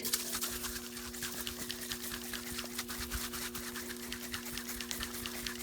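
Aerosol can of Sea Foam Deep Creep being shaken: a quick, continuous rattle of small clicks.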